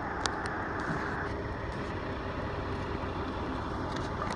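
A vehicle's engine running steadily, with two short sharp clicks just after the start.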